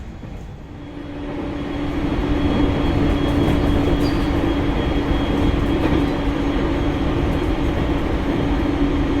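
Local train running, heard from inside the carriage: a steady rumble from the wheels and track with a steady hum, growing louder over the first couple of seconds and then holding level.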